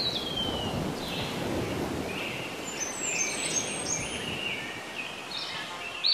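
Birds chirping and calling: short chirps and gliding whistles, one of them falling in pitch right at the start, over a steady outdoor background hiss.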